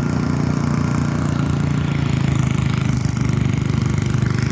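An engine idling steadily, with an even low pulse several times a second.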